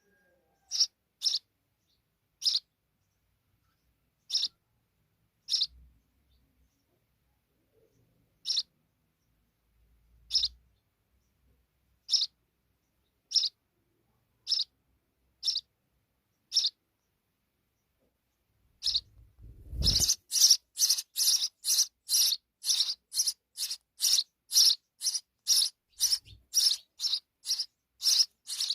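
Sparrow chirping: single short, high chirps every second or two, then, after a low thump about two-thirds of the way in, a fast, louder run of chirps at about two a second.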